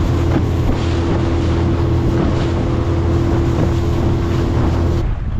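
Strong wind buffeting a chest-worn microphone through its wind muff, a loud, steady rumble, with a steady hum underneath that cuts off about five seconds in.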